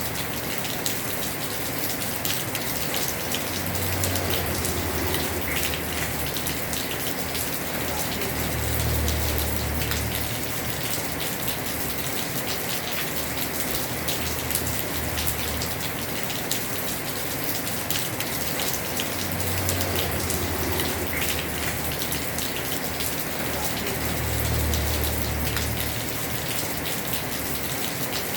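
Heavy rain falling steadily on a house roof, a dense hiss of many fine drop ticks. A low rumble swells and fades a few times underneath.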